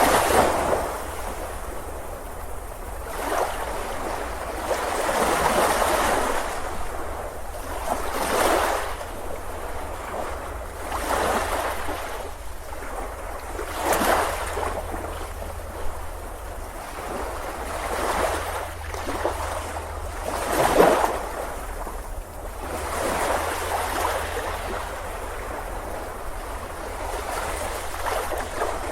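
Ocean waves breaking and washing on a beach, swelling and falling every few seconds, with one stronger break about two-thirds of the way through.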